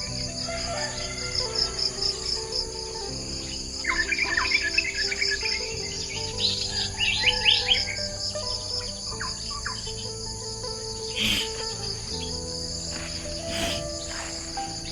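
Insects trilling in a steady fast-pulsing chirr, with birds chirping in quick runs of short falling notes between about four and eight seconds in.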